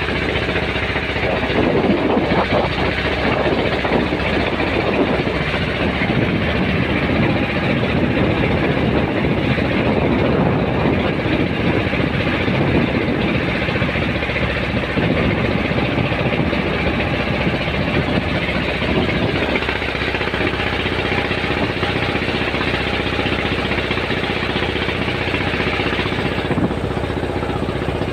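A boat's engine running steadily under way. Its sound thins about two-thirds of the way through.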